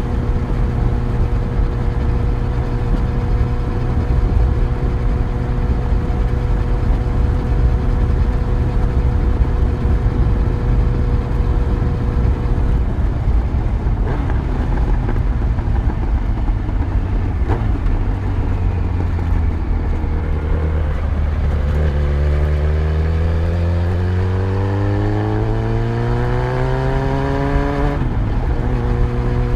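Yamaha FZ1 motorcycle's inline-four engine on the move: it holds a steady note, drops off for several seconds, then pulls up in pitch steadily for about seven seconds before the note falls back at a gear change near the end and settles steady again.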